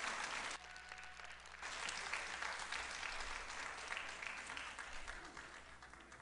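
Audience applauding, dipping briefly about half a second in, then fading away.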